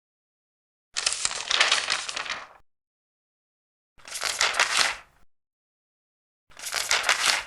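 Large paper pages being turned, three separate crisp rustles with silence between them.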